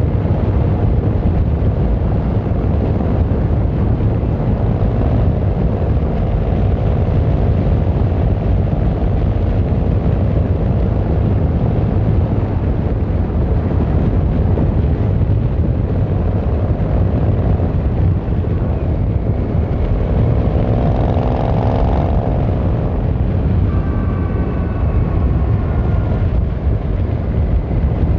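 Yamaha XVZ1300 Royal Star's V4 engine and exhaust running steadily under way. A brief rising tone is heard about twenty seconds in.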